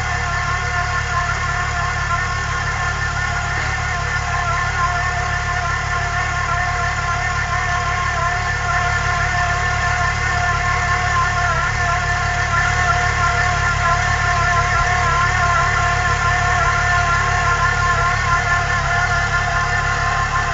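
Supercharged VW VR6 engine idling steadily: a low rumble with a steady whine above it, growing slightly louder in the second half.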